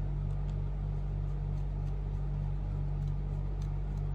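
Steady low hum, with a few faint light clicks scattered through it.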